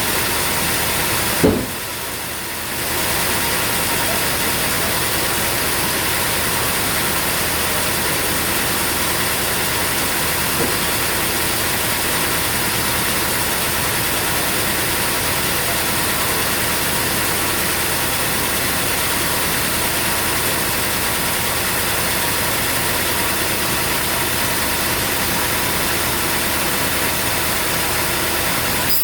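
A sawmill engine running steadily at an even pitch, not cutting. There is one sharp knock about a second and a half in, and the noise briefly drops just after it.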